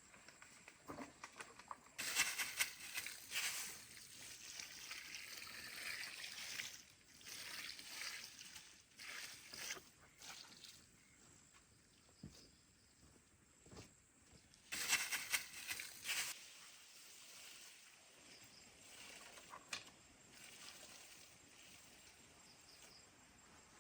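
Water splashing onto garden soil in two spells, the first lasting about five seconds and a shorter one later, with small scattered knocks between.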